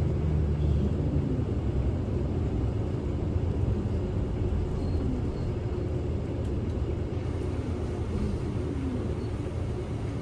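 Inside a Kyoto City bus on the move: a steady, deep engine hum and road noise.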